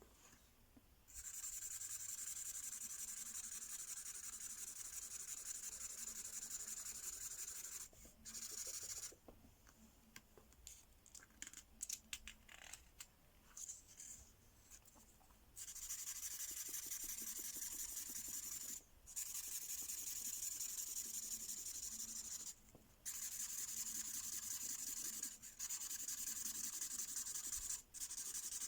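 Ink marker pen scribbling fast back and forth on a paper colouring page, in long strokes of a few seconds each separated by brief pauses. Choppier short strokes come in the middle.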